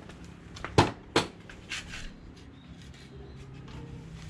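Two sharp knocks about a second in, close together, then a few lighter clicks and a short hiss over a low steady hum.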